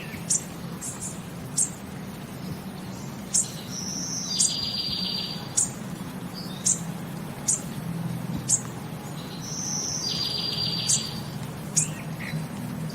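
A small bird calling: short, very high chirps about once a second, twice broken by a longer buzzy trill. A steady low hum runs underneath.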